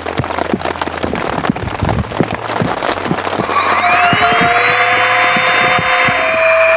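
Rapid, irregular tapping and clicking. About three and a half seconds in, a small electric motor spins up with a rising whine and then runs steadily at a high pitch.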